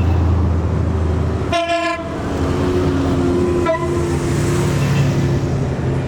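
Honda Gold Wing motorcycles running past in a slow procession, with horns sounding over the steady engine drone: a short blast about a second and a half in, another near four seconds in, and a lower horn held for a few seconds in between.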